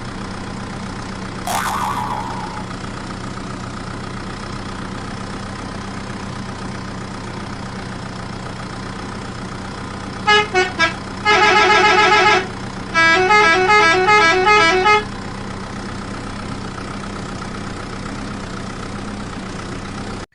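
Battery-operated toy vehicle's electronic sound effects over a steady motor hum: a short burst about 1.5 s in, then from about ten seconds a run of beeping horn tones — a few short beeps, a held chord, and a quick two-note beeping pattern.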